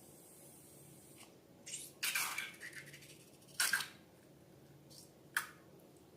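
Slime squelching wetly as it is handled, four short squishes, the longest about two seconds in.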